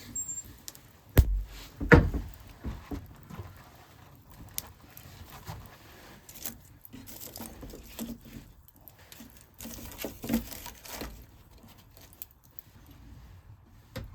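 Firewood being handled, wood knocking on wood: two loud thuds about one and two seconds in, then a run of lighter, irregular knocks and rustles.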